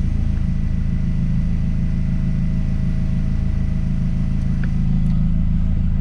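Toyota Celica ST165 Alltrac's 3S-GTE turbocharged four-cylinder idling steadily at about 800 rpm while still warming up, heard from inside the cabin as a low, even rumble.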